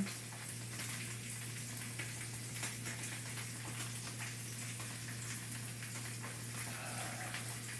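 Polenta slices sizzling in olive oil in a skillet: a steady hiss with faint scattered crackles. A steady low hum runs underneath.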